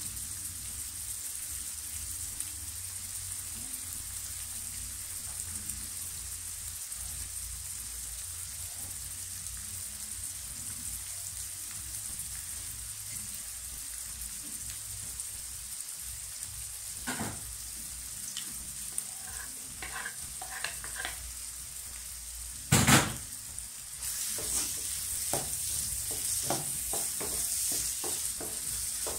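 Sliced onions sizzling in a wok, a steady hiss. About two-thirds of the way in there is one loud knock, then the sizzle gets louder and a wooden spatula scrapes the wok in repeated strokes as the onions are stirred.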